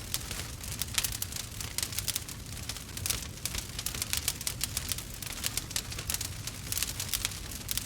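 Burning wood fire crackling steadily, with many quick irregular snaps and pops over a low steady rush of flame.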